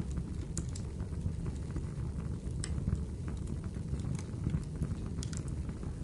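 Firewood burning in a fireplace, crackling: irregular sharp pops and snaps scattered over a steady low rush of the flames.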